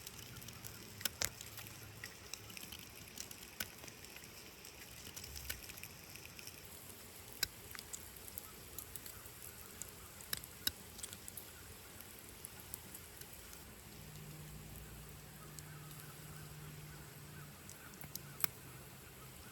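Campfire crackling, with irregular sharp pops over a faint steady hiss.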